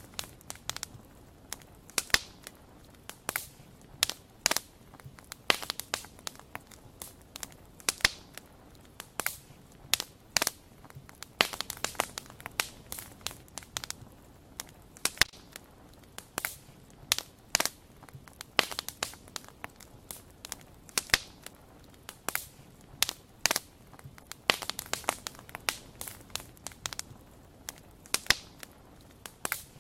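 Wood fire crackling, with irregular sharp pops and snaps, often several close together, over a faint low hiss.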